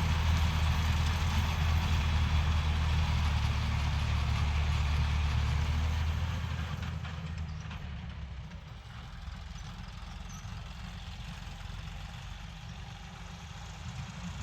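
John Deere 5310 tractor's diesel engine running steadily. It grows quieter from about six seconds in and rises again near the end.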